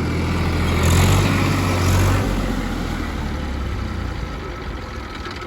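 Mini tractor engine running loud and steady, louder over the first two seconds and then settling.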